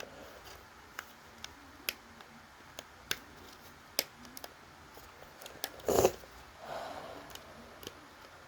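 Scattered light plastic clicks and taps from a smoke alarm and its mounting bracket being handled, with one louder bump about six seconds in.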